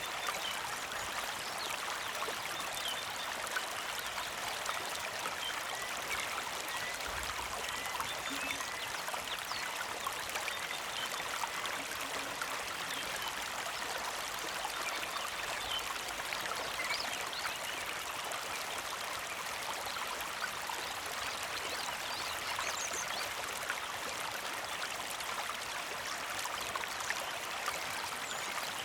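Small creek flowing and trickling steadily, full of fine splashing, with a few faint bird chirps here and there.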